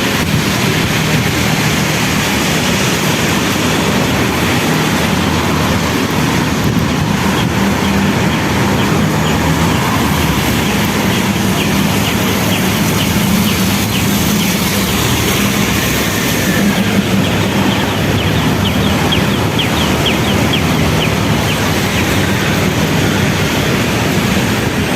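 Steady noise of a moving vehicle, with a low hum underneath.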